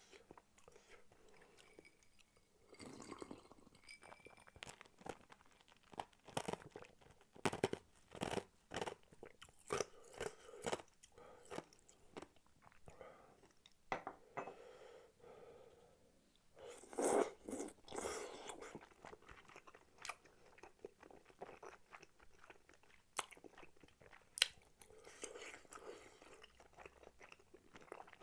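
A person chewing spicy tteokbokki close to the microphone, with irregular sharp clicks and short crunchy bursts of chewing throughout.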